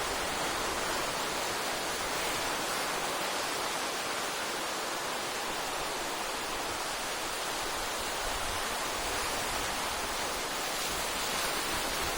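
Steady wash of ocean surf, waves breaking on the shore one after another.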